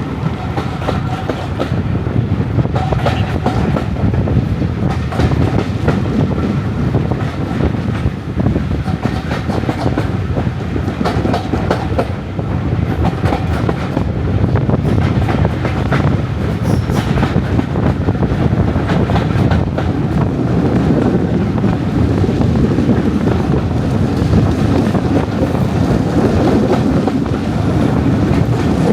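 Diesel-hauled heritage train running along the line: a steady heavy rumble with the clickety-clack of wheels over rail joints.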